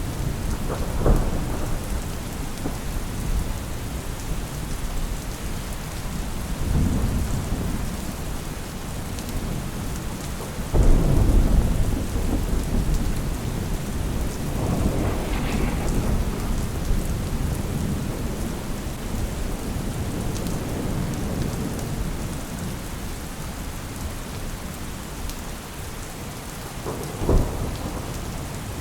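Steady rain with repeated low rolls of thunder. The loudest roll comes about a third of the way in, and a shorter, sharper one comes near the end.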